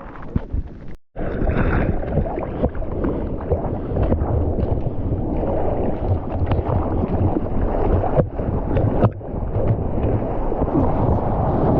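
Water churning and rushing around a surfer's GoPro, with wind buffeting the microphone. The sound cuts out for an instant about a second in, then carries on steadily.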